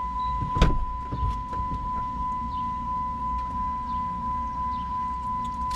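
A steady, high-pitched electronic tone held without a break, over a car's low rumble, with a single knock about half a second in.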